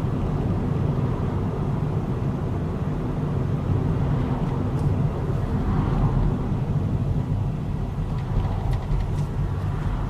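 A car's engine and road noise, a steady low rumble while driving, with a few faint ticks near the end.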